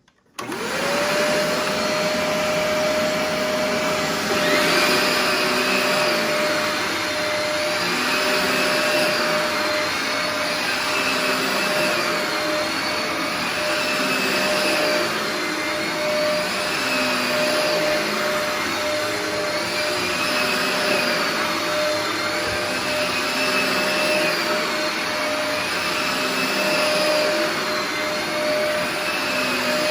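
Hoover WindTunnel Dual V upright vacuum switching on about half a second in, its motor running with a steady whine. About four seconds in the brush roll engages, and from then on the sound rises and falls every couple of seconds as the vacuum is pushed back and forth.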